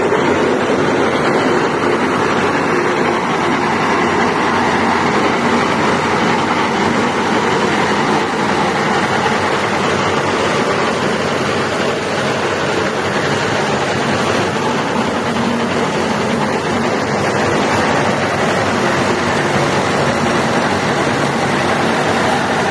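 Water-well drilling rig running steadily at the start of a borehole, its engine and rotating drill string making a loud, even machine noise with a low hum.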